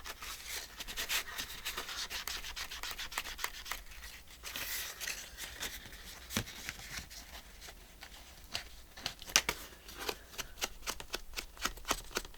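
Scratchy rubbing on paper as ink is worked onto the edges of paper pieces to darken them, in repeated short strokes that come thicker and faster in the second half.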